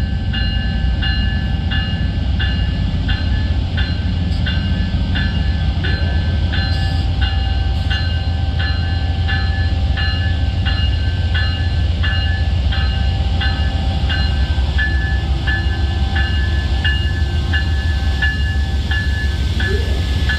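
A railroad warning bell ringing steadily, about two strokes a second, over the deep steady rumble of diesel locomotives.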